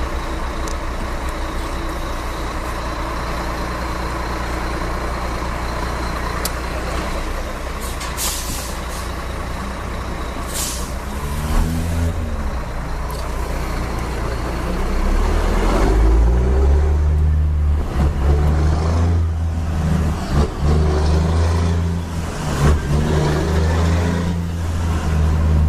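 Scania G-series truck's diesel engine running steadily, with short hisses of air from the brakes about a third of the way in. It then pulls away and gets louder and deeper as it accelerates, dipping briefly as it changes gear.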